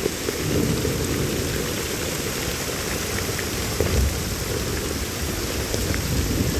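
Heavy rain falling steadily, with a low rumble underneath that swells about half a second in and again around four seconds.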